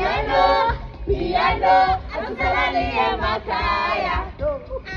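Several voices singing and shouting together over music with a pulsing bass line.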